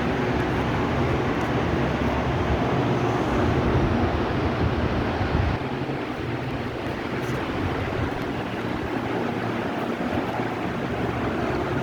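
56-inch Punjab ceiling fan running, a steady rush of air over a low motor hum. About halfway through, the deepest part of the sound drops away and it gets a little quieter.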